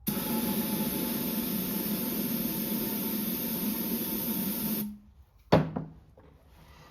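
Steady hiss of a pressurized spray being blown on a chainsaw carburetor for about five seconds, cutting off sharply, followed by a single sharp knock, like the can or tool being set down.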